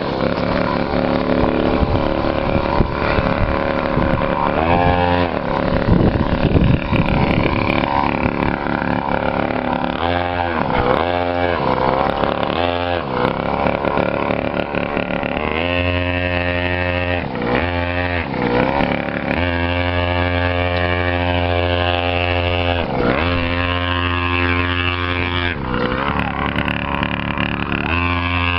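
Small custom chopper motorcycle engine running, its speed dipping and climbing back several times as the throttle is eased and opened, with steady stretches between.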